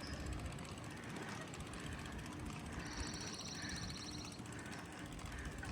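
Steady low outdoor rumble with no voices. About three seconds in, a high, rapidly pulsing buzz or trill sounds for about a second and a half.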